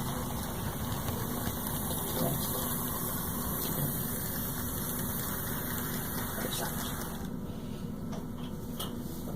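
HO scale model steam locomotive's small electric motor running, with its wheels on the track, as a steady hum and hiss while the train slows to a stop; the hiss thins out about seven seconds in.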